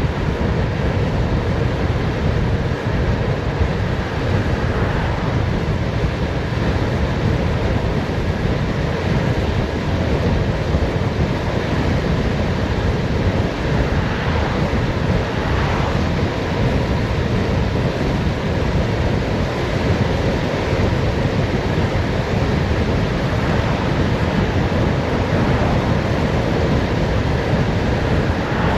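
Wind rushing over the microphone of a bicycle descending fast downhill: a steady, loud rush with a heavy low rumble.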